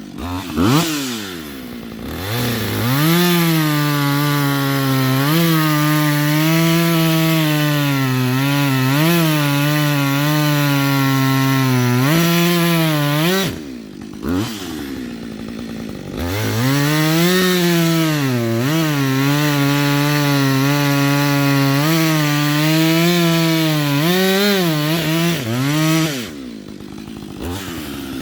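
Chainsaw cutting firewood, its engine held at high revs with the pitch dipping and wavering as the chain bites into the wood. About 13 seconds in it drops back to a lower speed, revs up again a couple of seconds later for another cut, and eases off once more near the end.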